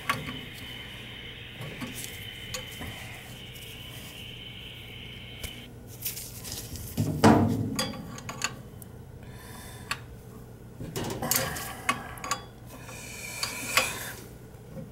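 Metal tools and fittings clinking and knocking as they are handled, with one louder knock about seven seconds in. A steady high-pitched tone runs under the first five seconds or so.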